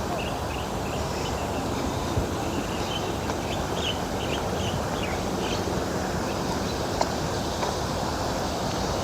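Birds giving short, quick chirps over a steady noisy background, the chirps thinning out after about the first half.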